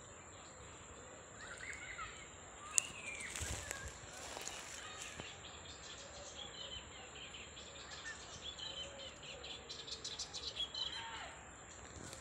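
Small birds chirping at intervals in the background, with one sharp click about three seconds in.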